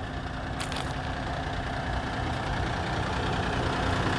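Heavy diesel engine of a 2022 Kenworth dump truck idling with a steady rumble that grows slowly louder. A short click sounds a little under a second in.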